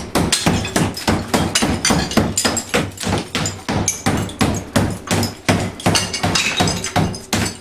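Rapid hammer blows breaking through tiled drywall between the wall studs, about four strikes a second in a steady run.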